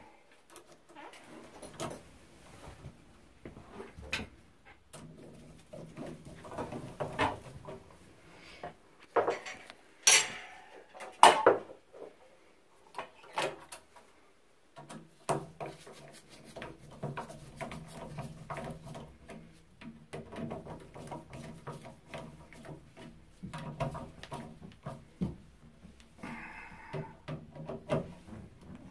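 Repeated clicks, clinks and light knocks of metal and plastic valve parts being handled and fitted, with two louder scrapes about a third of the way in, as a new Kohler shower valve cartridge is installed. A low steady hum comes in about halfway.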